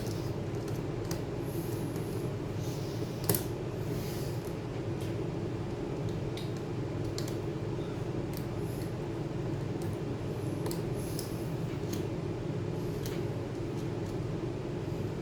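Scattered small clicks and scrapes of a laptop's parts and tools being handled, the sharpest click about three seconds in, over a steady low hum.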